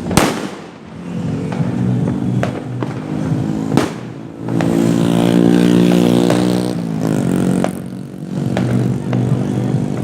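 Firework bangs: a loud crack right at the start and another about four seconds in, with smaller pops between, over a vehicle engine running steadily that grows louder in the middle.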